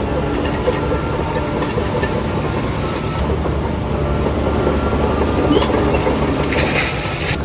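Heavy diesel engine of a Shantui DH17C3 crawler bulldozer running steadily under load, with its steel tracks clanking and rattling. A short hiss comes near the end.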